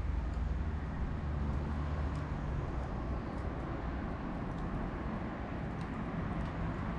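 Bonfire with a few faint sharp crackles over a steady low rumble, the rumble heaviest in the first two or three seconds.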